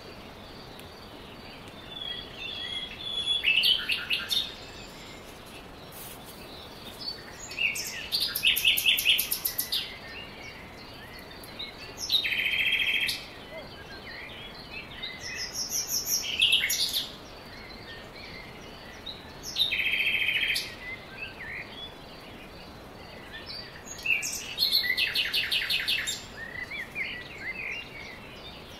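Wild birds singing: short phrases of rapid, high-pitched repeated notes, recurring every three to five seconds over a steady background hiss.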